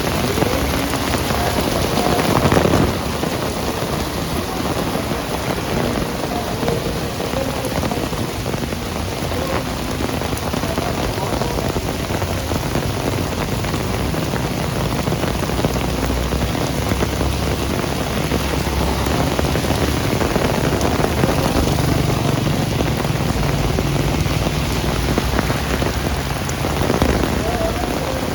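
Heavy rain falling steadily, with a louder swell about two seconds in and again near the end. A low rumble builds in the second half.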